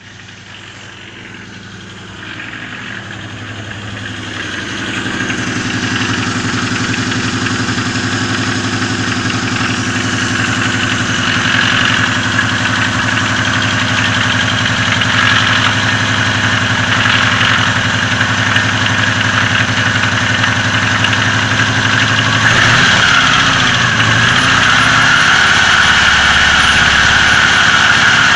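Oka's two-cylinder engine idling with a knock that has grown louder over time, heard at low revs and fading when the revs go up; the valve clearances are in order. About 22 seconds in the pitch wavers briefly as the revs change.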